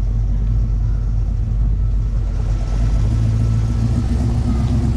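Car engine running close by with a deep, steady low rumble, growing a little stronger about halfway through.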